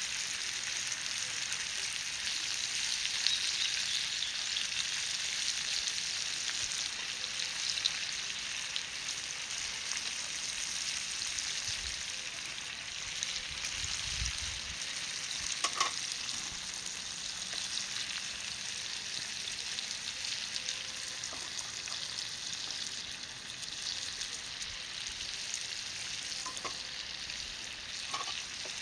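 Ajillo of mushrooms and shrimp sizzling in hot oil in a small pan over charcoal, a steady hiss. A few light clicks come over it, mostly near the end.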